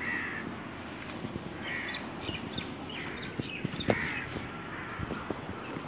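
Birds calling outdoors, a harsh call repeating about every two seconds with fainter calls between. Several knocks and rustles of the camera being handled come about four seconds in.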